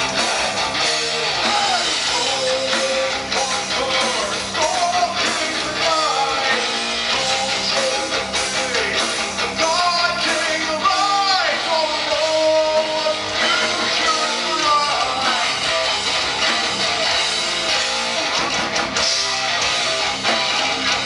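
A live rock band playing: strummed electric guitars under a gliding lead melody line.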